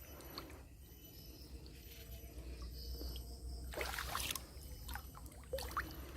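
Water splashing and trickling in two short bursts, about four seconds in and again near the end, over a steady low hum.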